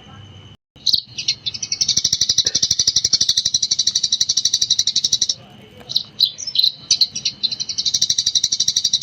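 Eurasian tree sparrow singing its 'gecor' song: a few sharp chirps, then long runs of very rapid, high, repeated chirps, broken by a pause of scattered chirps in the middle.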